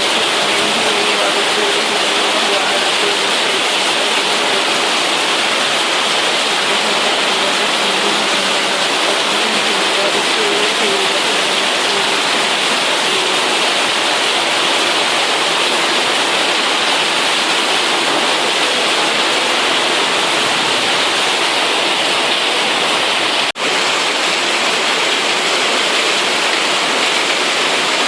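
Heavy rain falling in a steady, loud downpour, with a brief break in the sound about 23 seconds in.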